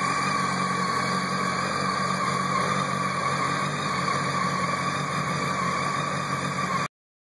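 2006 Honda 919 (CB900F) motorcycle's inline-four engine idling steadily; the sound cuts off suddenly near the end.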